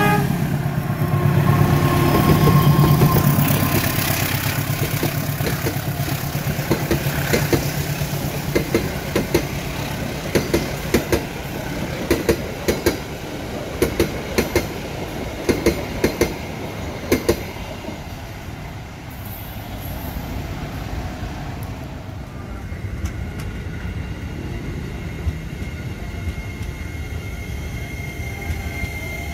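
KAI diesel locomotive passing close by, its engine rumbling loudest in the first few seconds, then its coaches' wheels clacking over rail joints in quick groups of sharp knocks. About three-quarters of the way through, the sound changes to a KRL electric commuter train rolling past with a steady whine.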